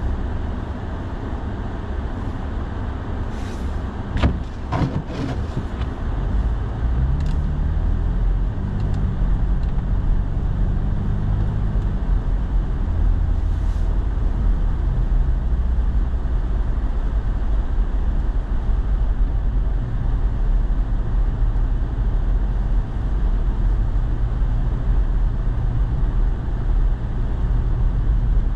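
Pickup truck's engine and tyre noise heard from inside the cab while driving on snowy roads, with a few sharp clicks about four to five seconds in. The engine note rises as the truck speeds up from about six seconds in, then settles into a steady rumble.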